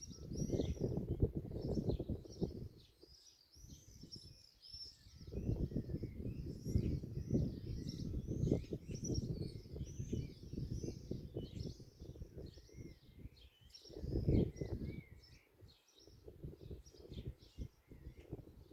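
Many small birds chirping and twittering without a break, over a low rumbling noise that swells and drops away several times.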